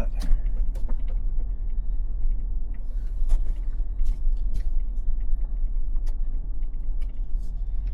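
Toyota 4Runner driving slowly over a rough dirt track, heard inside the cabin: a steady low rumble with scattered creaks, clicks and rattles from the body and the gear it carries.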